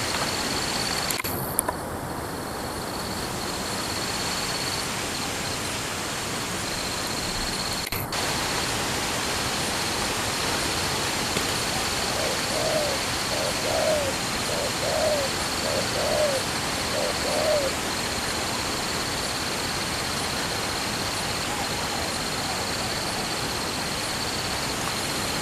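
Steady hiss with a faint high continuous tone. About twelve seconds in, a spotted dove gives a run of low coos lasting about six seconds.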